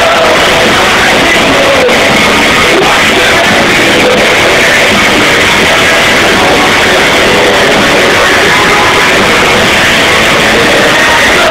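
Live rock band playing loud at a festival, recorded from the crowd with a poor, distorted sound that has little bass and stays at one flat, overloaded level.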